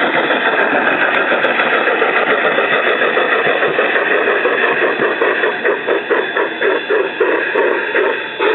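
Garden-scale train running, heard from a passenger car: a steady rushing noise, with the Phoenix Sound PB11 steam sound of an Aristo-Craft C-16 locomotive coming through from about halfway as rhythmic chuffs at roughly three a second. The chuffs stop just before the end.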